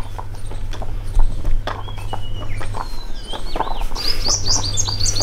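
Birds chirping and calling, with gliding whistles in the middle and a quick run of high repeated chirps from about four seconds in. A steady low hum and scattered light clicks run underneath.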